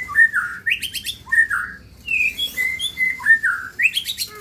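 Songbird singing a phrase of clear whistled notes with quick rising sweeps, repeated twice in nearly the same form.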